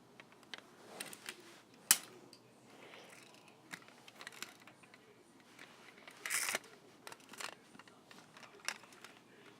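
Irregular small clicks and taps with a brief scraping burst about six seconds in, like objects being handled close to the microphone.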